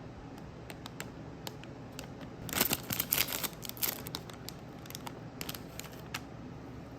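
Snack packaging being handled and opened: scattered light ticks, then a burst of crinkling and tearing about two and a half seconds in that lasts about a second and a half, and a few more crinkles near the end.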